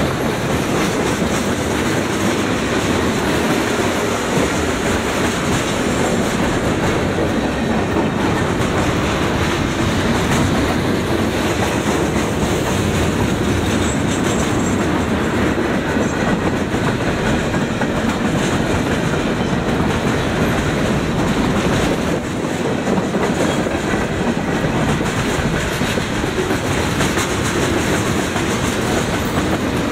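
Freight train cars rolling past close by: steel wheels running on the rails and clattering over the joints, with a loud, steady noise throughout.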